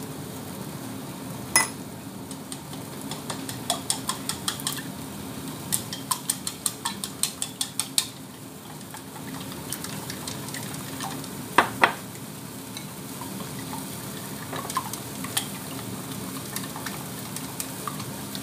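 Tomatoes sizzling steadily in hot oil in a wok, while chopsticks beating eggs click rapidly against a ceramic bowl in two runs of about four taps a second, with a couple of louder single knocks.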